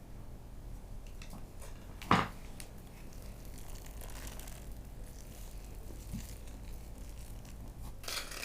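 Quiet food-preparation handling sounds with one sharp knock about two seconds in and a softer rustle near the end.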